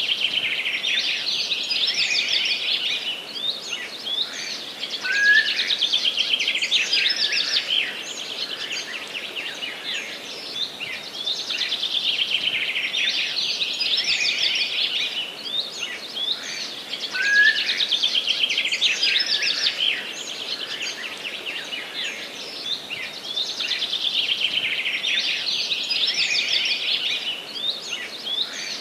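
Songbirds singing in a forest: dense, rapid twittering phrases that swell and fade every few seconds, with a short rising whistle about every twelve seconds.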